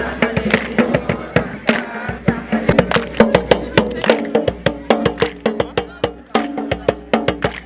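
Fast rhythmic percussion: sharp hand-played strikes, several a second, in a steady beat, with fainter held tones underneath.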